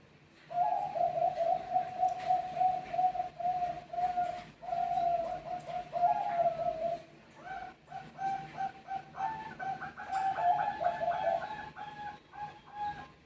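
Zebra doves (Bangkok-bred perkutut song doves) cooing: a quick string of short coos starts about half a second in. About seven and a half seconds in, a second, higher-pitched series of notes joins and overlaps it, as the birds answer each other.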